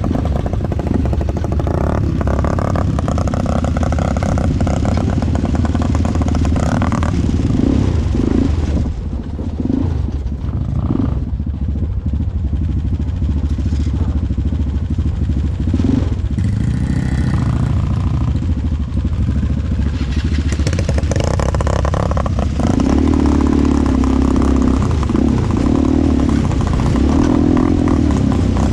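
ATV engine running under way, its pitch and loudness rising and falling as the throttle is worked, easing off for a few seconds about a third of the way in.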